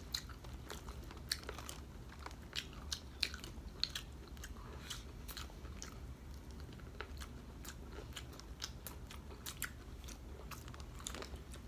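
Eating sounds: bites and chewing of crisp food, with short, sharp crunches coming irregularly over a steady low hum.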